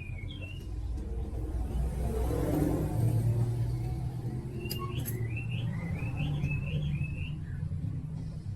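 Small motorbike engine running, a steady low rumble that builds over the first second or two and then holds, with birds chirping over it.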